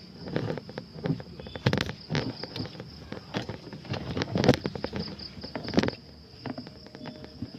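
A steady, high-pitched insect drone, with irregular crackling and snapping of dry leaves and twigs as someone moves through undergrowth.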